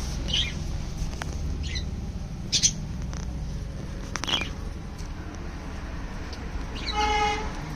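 Cage birds giving scattered short, high chirps, then a longer call with a clear pitch about seven seconds in, over a steady low rumble.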